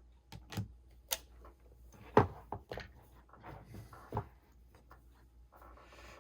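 Small phone parts and tools being handled on a work surface: a string of sharp clicks and knocks, the loudest about two seconds in, then a short rustle near the end.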